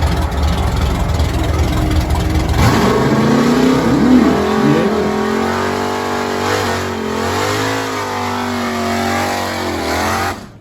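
A muscle car engine with a heavy, pulsing low rumble, then from about two and a half seconds in revving and accelerating, its pitch rising and falling several times. It stops abruptly near the end.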